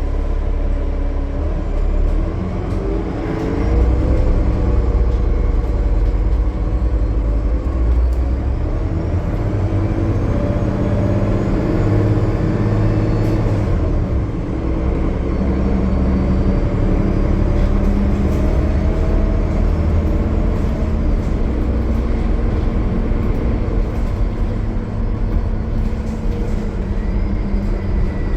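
Cummins ISL9 diesel engine of a Gillig Low Floor transit bus running under way at highway speed: a steady, loud, low drone with road rumble. The engine note rises for a moment a few seconds in as it pulls, then holds steady.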